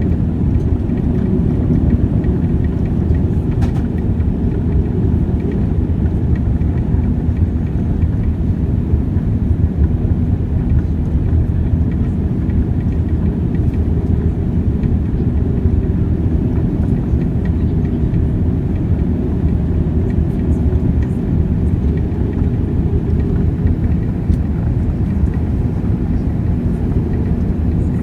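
Steady low rumble inside the cabin of a Boeing 787 airliner: engine and airflow noise with no distinct events.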